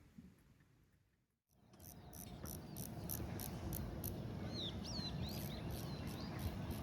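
Crickets chirping in high, evenly spaced pulses, about three a second, over a low steady rumble, with a few short sweeping chirps in the middle. The sound fades almost to nothing and comes back in about a second and a half in.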